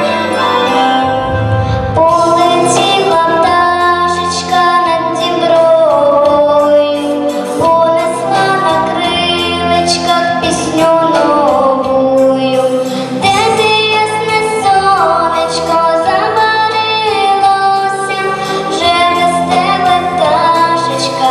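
A solo female voice sings a Ukrainian song over an instrumental backing track.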